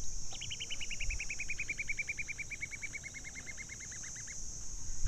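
A bird calling outdoors: a rapid run of short high notes, about ten a second, slowly falling in pitch over about four seconds. A steady high-pitched insect buzz, like cicadas or crickets, runs underneath.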